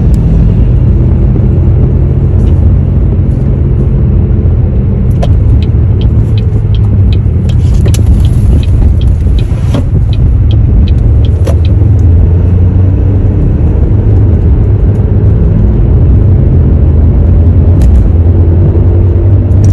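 Low, steady humming drone of a car driving with a bad wheel hub bearing: a worn bearing. A run of light clicks at about two to three a second comes in for several seconds in the middle.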